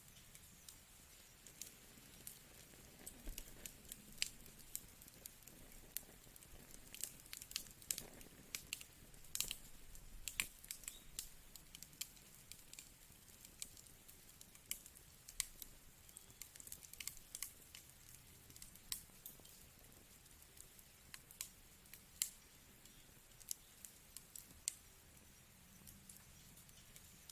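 Wood fire crackling: irregular sharp pops and snaps over a faint hiss, most frequent about a quarter of the way in.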